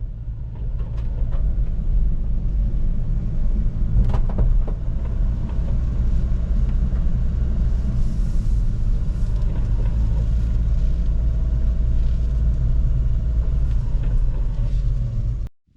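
A kei truck camper driving: steady low engine and road rumble.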